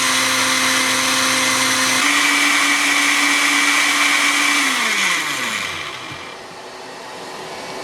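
A household appliance's electric motor running with a steady whine. Its pitch steps up slightly about two seconds in. About five seconds in it is switched off and winds down with a falling pitch.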